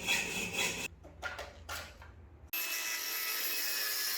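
Workshop tool noise: a rough scraping sound for about a second, a few short knocks, then a power tool running steadily at a high pitch for about two seconds and cutting off suddenly near the end.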